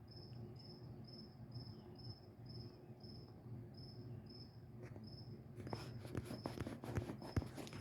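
A cricket chirping steadily, a high-pitched chirp about two to three times a second. About two-thirds of the way in, faint rustling and clicks join it.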